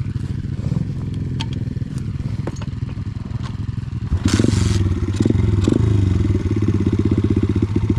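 Small pit bike engine running at low revs, with scattered clicks and clatter. About four seconds in there is a short burst of noise, and after it the engine runs louder with an even beat.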